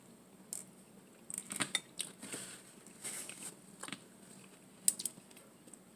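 Close-up chewing and mouth sounds of someone eating bread and pasta, with scattered wet smacks and a few sharp clicks, the sharpest about five seconds in.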